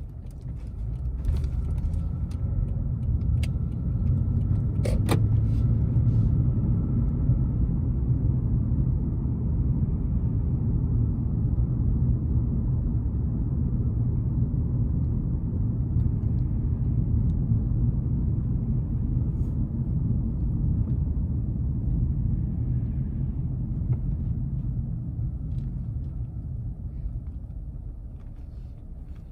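Toyota Crown driving, heard from inside the cabin: a steady low rumble of engine and road noise that builds over the first couple of seconds and eases off near the end. A few light clicks sound in the first several seconds.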